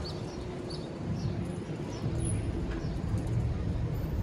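Small birds chirping, short high chirps repeated a few times, over a steady low outdoor rumble.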